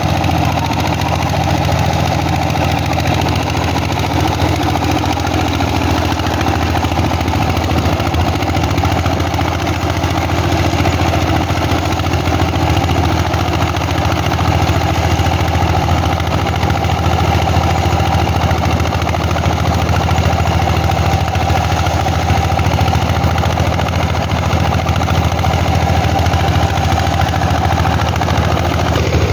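Single-cylinder diesel engine of a Vietnamese công nông farm vehicle running steadily, a loud continuous drone.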